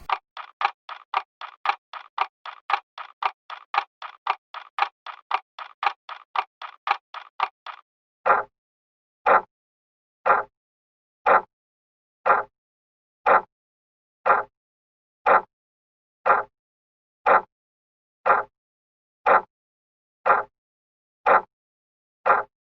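Clock ticking: light, quick ticks about three a second, then, about eight seconds in, a switch to louder, fuller ticks once a second.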